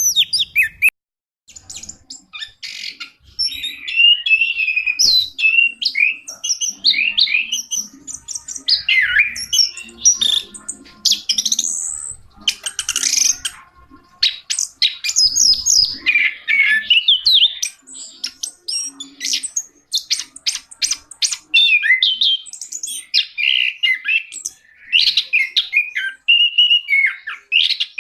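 Orange-headed thrush singing a long, continuous, varied song of rapid chirps, whistled phrases and quick rising and falling notes, broken by runs of sharp clicking notes.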